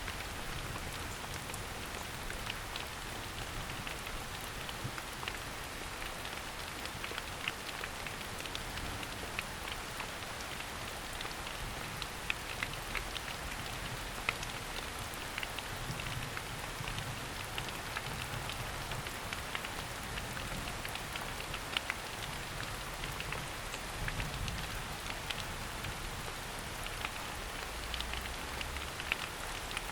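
Steady rain falling on forest foliage, an even hiss with many separate drops pattering close by.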